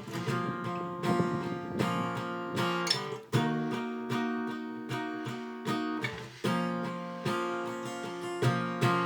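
Background music: strummed acoustic guitar chords, changing about once a second.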